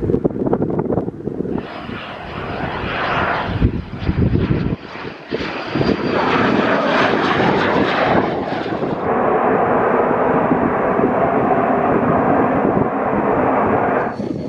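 Fixed-wing aircraft engine running loud and steady, with gusts of wind buffeting the microphone in the first few seconds.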